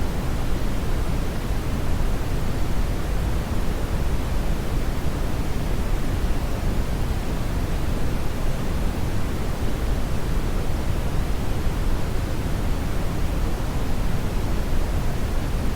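Steady brown noise: a continuous deep, rumbling hiss, strongest in the bass and thinning toward the treble, with no change.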